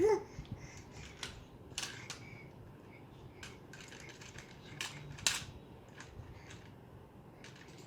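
Light, scattered clicks and knocks of a plastic toy airplane being handled and knocked about, several seconds apart and irregular, the sharpest about five seconds in.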